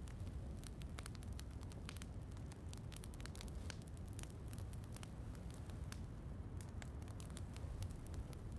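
A wood fire crackling, with many irregular sharp pops over a low, steady rumble.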